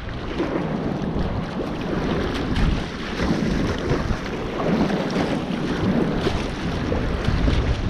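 Wind buffeting the microphone over the wash and slosh of sea water and small waves.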